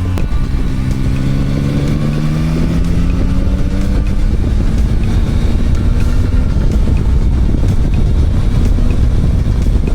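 Motorcycle engine accelerating, its pitch rising over the first few seconds and then levelling off, under a steady rush of wind and road noise.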